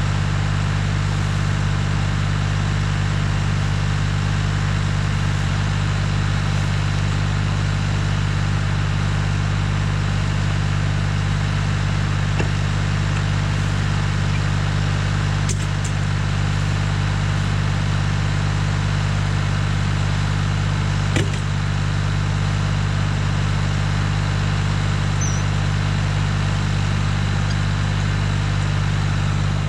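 Tractor engine running steadily, driving a BX-52 PTO wood chipper, with a few brief sharp knocks toward the middle.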